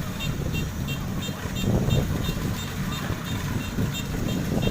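Diesel engine of a Kubota DC93 combine harvester running steadily, with its electronic warning beeper sounding in short high beeps about three times a second.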